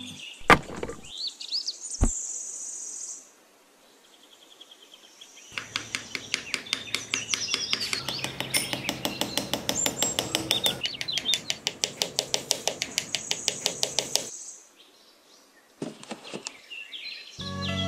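Small birds chirping in short gliding calls, with a fast, even run of sharp clicks, about five a second, starting about five seconds in and stopping about fourteen seconds in.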